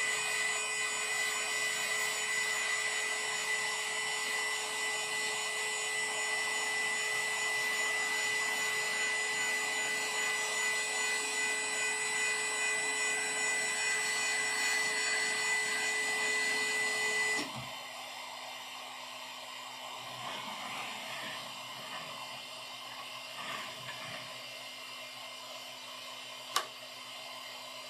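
Malyan M150 3D printer running, its fans whirring steadily with a high whine. About 17 seconds in the louder whirr stops abruptly, leaving a quieter hum, and there is a single sharp click near the end.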